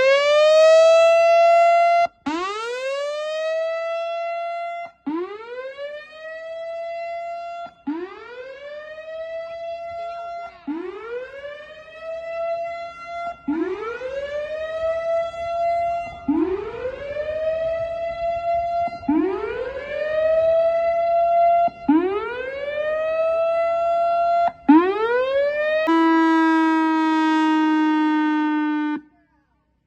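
Outdoor warning siren sounding a repeated whoop: about ten rising tones, each climbing quickly, holding, then cutting off sharply, roughly every three seconds. Near the end it switches to a steadier, slightly falling tone for about three seconds, then stops.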